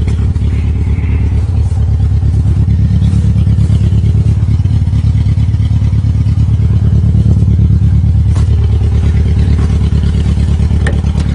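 1994 Geo Tracker's small four-cylinder engine running steadily just after a winter cold start. It runs rough on a half-dead cylinder, which the owner puts down to bad compression on one cylinder.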